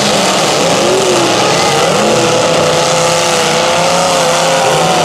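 Several demolition derby car engines running hard and revving, their pitch wavering up and down over a thick, steady din.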